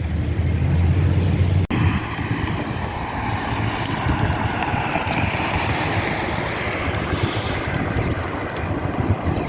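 Wind rushing over the microphone with traffic-like noise. A heavy low rumble runs for about the first second and a half, then breaks off at a short cut and gives way to a steady hiss.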